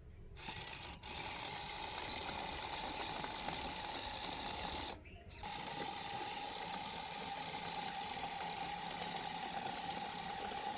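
A small motor whirring steadily with a high whine and hiss, cutting out for about half a second around five seconds in, then running on.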